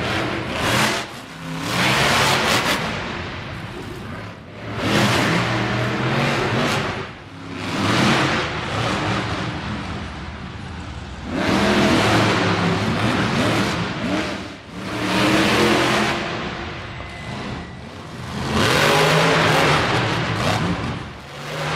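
Monster truck engine revving hard in repeated bursts, about six surges each a second or two long, dropping back between them.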